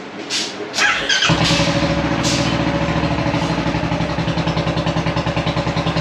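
Royal Enfield single-cylinder motorcycle engine started on the electric starter, catching a little over a second in and settling into a steady, evenly pulsing idle.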